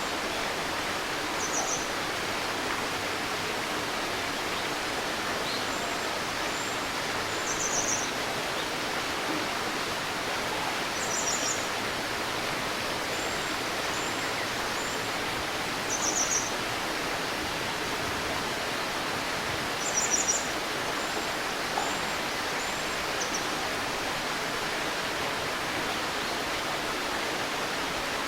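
Stream babbling steadily, with small birds giving short, high chirps every few seconds, the clearest around 8, 11, 16 and 20 seconds in.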